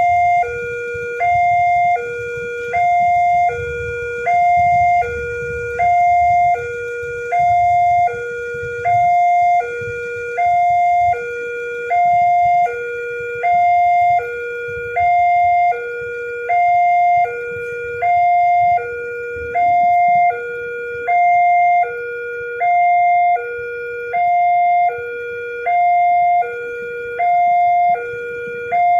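Railway level-crossing warning alarm sounding a steady two-tone high-low pattern, about one high-low cycle every second and a half, signalling that a train is approaching. A low rumble runs underneath.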